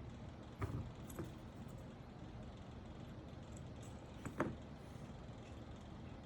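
A few light clicks and knocks from keyboard parts being handled during assembly: two sharp ones in the first second or so and a louder double knock a little past four seconds, over a steady low background rumble.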